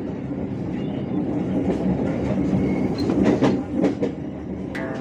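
Train running on the rails: a steady rumble with irregular wheel clacks over the rail joints.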